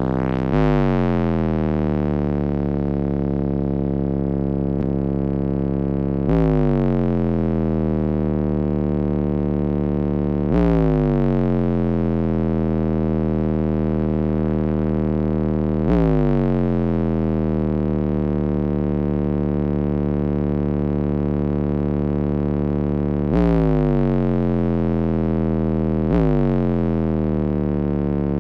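Deep synth bass notes played loud through a wall of fourteen Resilient Sounds Platinum 18-inch subwoofers, each note held for several seconds before the next is struck, six new notes in all.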